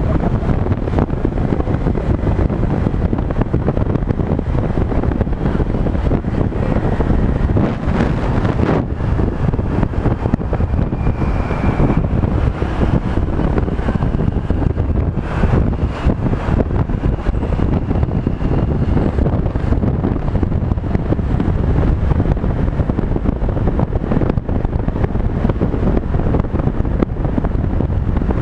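Wind buffeting the microphone of a moving Honda PCX 125 scooter, a steady rush over the scooter's engine and road noise, with a few faint whining tones partway through.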